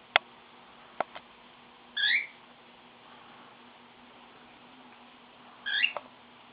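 Pet bird giving two short, squeaky chirping calls about four seconds apart, with a few sharp clicks in the first second.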